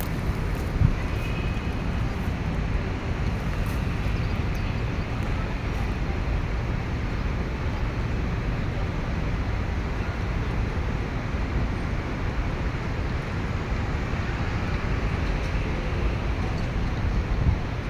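Steady low rumbling outdoor background noise, without any distinct event standing out.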